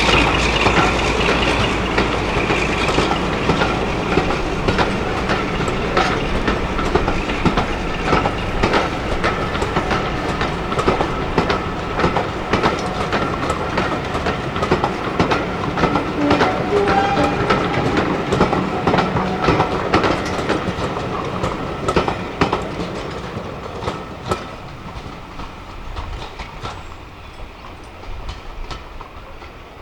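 A train running on the track, its wheels clicking over the rail joints, fading steadily as it moves away.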